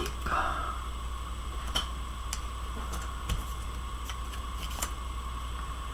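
A few light, scattered clicks and taps of craft supplies being handled on a desk, over a steady electrical hum.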